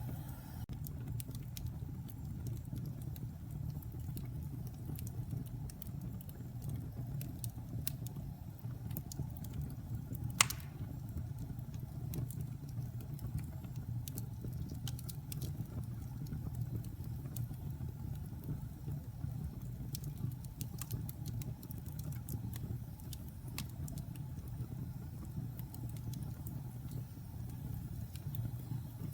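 Wood fire in a fireplace crackling: a steady low rumble under scattered sharp crackles, with one loud pop about ten seconds in.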